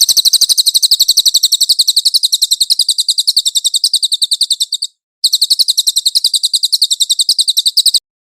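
A cililin songbird singing a rapid, high-pitched trill of evenly repeated notes, about ten a second. It breaks off briefly about five seconds in, resumes, and stops abruptly near the end.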